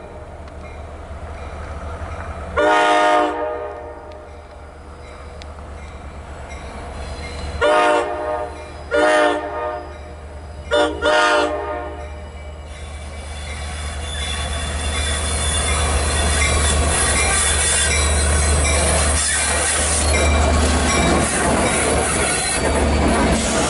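Long Island Rail Road diesel train sounding its horn in five blasts as it approaches a grade crossing: one about 3 s in, then a group of four between about 8 and 12 s, the last two short and close together. The train then passes close by, with a low diesel rumble, wheels clattering over the rails and wheels squealing, growing loud from about 13 s on.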